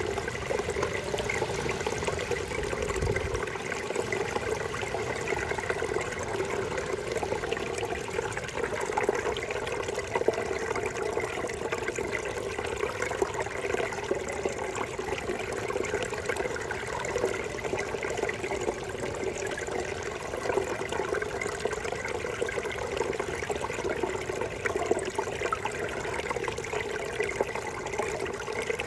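A small brook babbling steadily, an even, continuous water sound, with a low rumble for the first few seconds.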